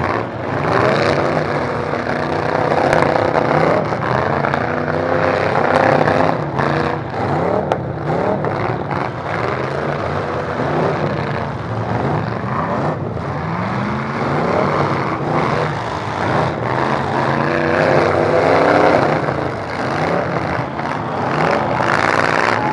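Several derby truck engines revving up and down at once, their pitches rising and falling against each other, with a few sharp bangs mixed in.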